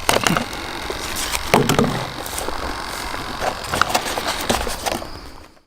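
Outdoor background noise with scattered clicks and rustles of handling, fading out at the end.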